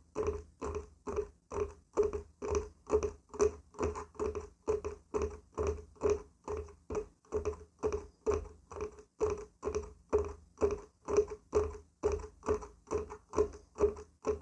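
Fingers tapping and knocking on a wooden surface in a steady run of short, hollow knocks, about three a second.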